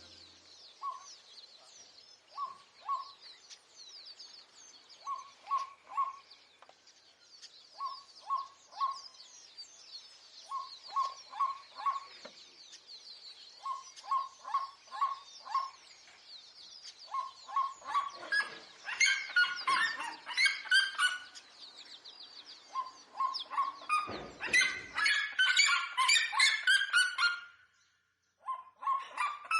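Birds calling: short calls repeated in quick groups of two to four over faint high twittering, turning into louder, denser calling about two-thirds of the way through.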